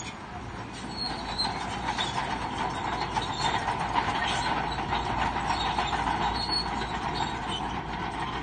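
Crawler bulldozer working, its steel tracks squealing steadily and clanking over the engine's running.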